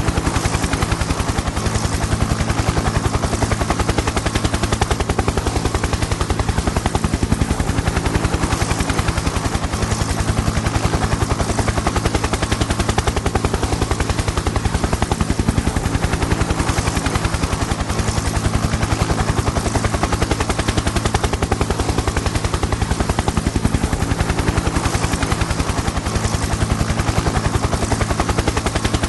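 Helicopter in flight: the rapid, even chop of the rotor blades over a steady low engine drone.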